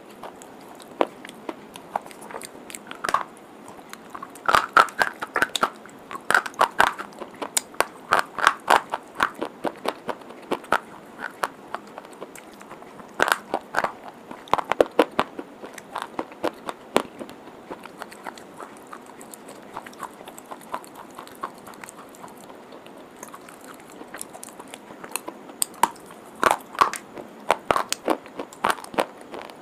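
Crunching and chewing of hard white chalk, close to the microphone: irregular clusters of sharp crunches, densest in three bouts (early, around the middle and near the end), with quieter chewing between.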